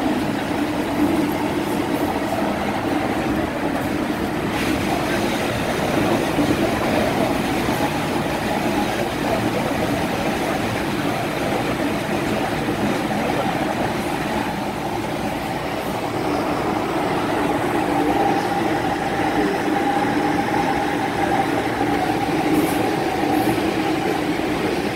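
MTR M-Train electric multiple unit running through an underground tunnel: a steady rumble of wheels on rails with a constant low motor hum, easing slightly about halfway through and then picking up again.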